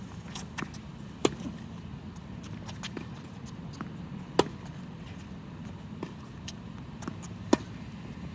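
Tennis singles rally: a ball struck back and forth with rackets, with three loud hits about three seconds apart and fainter hits and bounces between them, over a steady low background hum.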